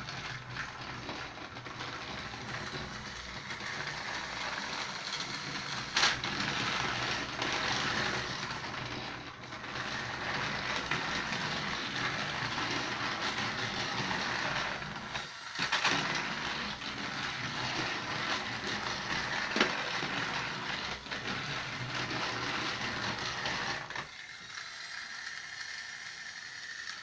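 Battery-powered Trackmaster toy train engine fitted with a 24,000 RPM hobby motor running fast on plastic track: a continuous motor whir and clattering of wheels and gears, with a few sharp clicks over track joints. It dips briefly twice and is quieter near the end.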